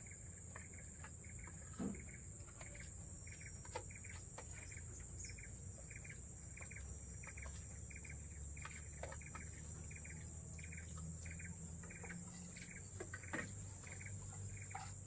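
Steady high-pitched insect chorus of forest insects, with a short chirping call repeated about every half second and a few faint knocks, the loudest about two seconds in and near the end.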